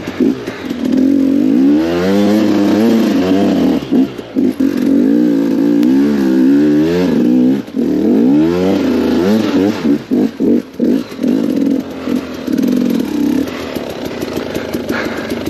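KTM 250 XCW two-stroke dirt bike engine revving up and down over and over under throttle, with a run of quick throttle chops about ten seconds in, then running steadier and lower near the end.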